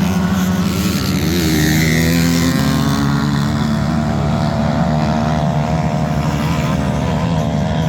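Motocross bike engines revving on the track, their pitch rising and falling as the riders accelerate and back off, with a clear rising rev about a second or two in.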